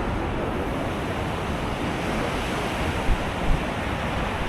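Steady rush of storm wind buffeting the camera microphone, heaviest in the low end, with two brief bumps of gusting about three seconds in.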